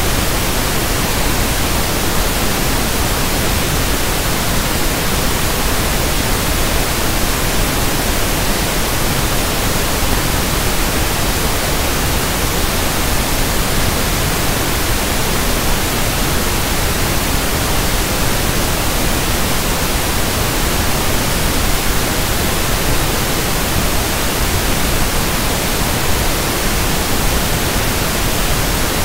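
Steady pink noise (1/f noise), an even hiss at a constant level.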